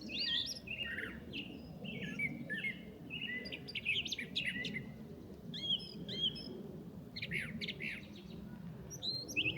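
A songbird singing a continuous, rapid string of varied chirps and whistled notes, changing phrase every fraction of a second, over a low background rumble.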